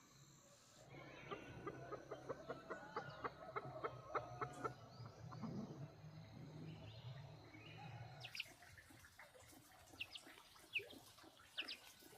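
Chickens clucking in a quick, faint run of calls, followed near the end by a few short, high chirps.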